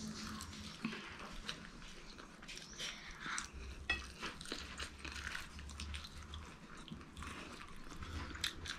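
Close-miked eating sounds: children biting and chewing fried chicken, with irregular small crunches and wet lip smacks.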